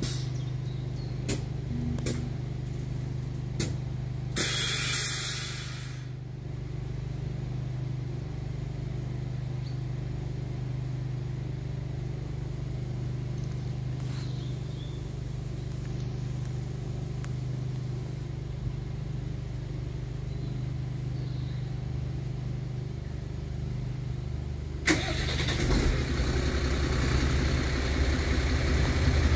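A steady low hum, with a few clicks and a short hiss about four seconds in. Near the end, the rumble of an approaching erixx regional train, two coupled Alstom Coradia LINT diesel multiple units, rises quickly and grows louder.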